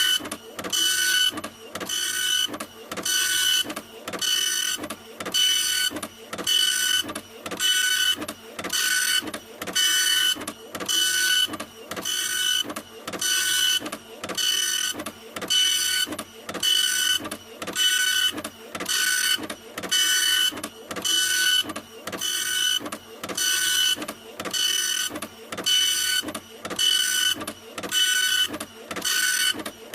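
Printer running continuously, a regular whirring stroke repeating a little more than once a second, each pass carrying a steady whine.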